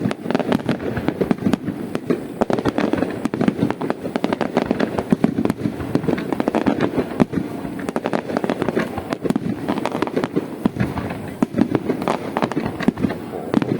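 Aerial fireworks display going off: many sharp bangs and crackles from bursting shells in quick succession, without a break.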